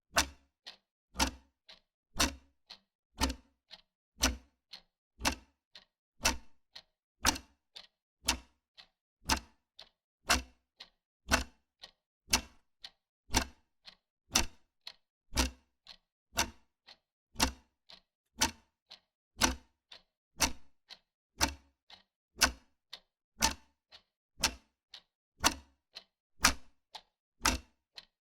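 Wall clock ticking steadily, a sharp tick and a softer tock each second.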